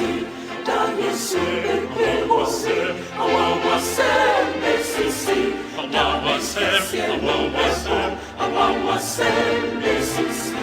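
Choir singing to an accompaniment with sustained bass notes that change every second or two.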